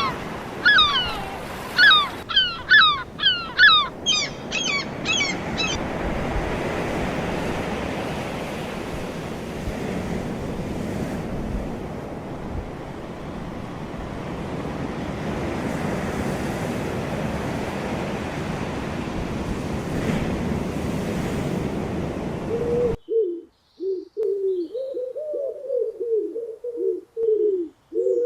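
Surf washing and wind noise, with a quick run of sharp, repeated bird calls over it in the first six seconds. About 23 seconds in it cuts abruptly to a pigeon cooing in a repeated rhythm.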